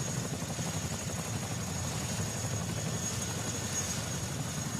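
CH-47 Chinook twin-rotor helicopter running with its twin turboshaft engines: a steady low rotor rumble under a steady high-pitched turbine whine.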